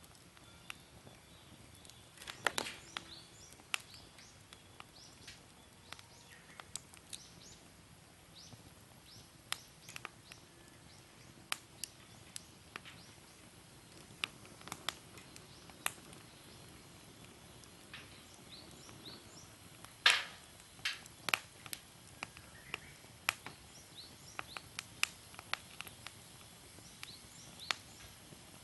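Wood fire crackling, with irregular sharp pops and snaps over a faint steady hiss; the loudest pop comes about twenty seconds in.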